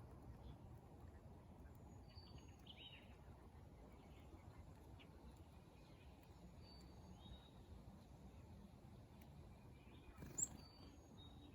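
Faint birdsong: scattered short high chirps and whistles over a low, steady background hiss, with one louder chirp near the end.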